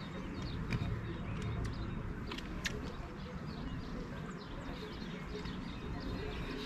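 Small birds chirping and twittering in short, repeated calls, over a steady low rumble.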